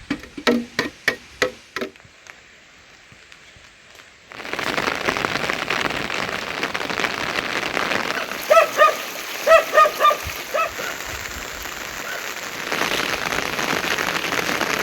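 Heavy rain falling steadily. It starts abruptly about four seconds in, after a few sharp knocks and a short lull, and grows heavier near the end. Several short pitched calls rise above the rain partway through.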